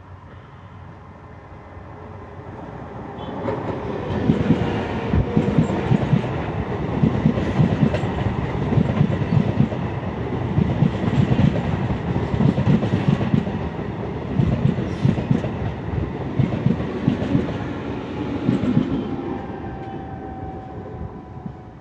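Three-phase MEMU electric multiple unit train passing close by. Its wheels clatter in rhythmic groups over the rail joints; the sound builds about three seconds in and fades near the end, when a faint whine drops in pitch.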